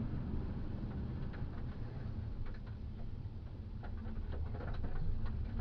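Steady low rumble of a vehicle heard from inside as it drives, with scattered light clicks and ticks over it.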